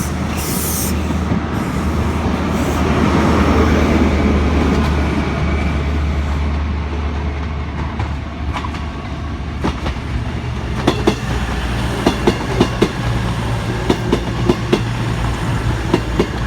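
Class 43 HST diesel power cars pulling a train out of the station: a steady low engine drone that swells a few seconds in, then from about two-thirds of the way a run of sharp clicks as the wheels pass over rail joints.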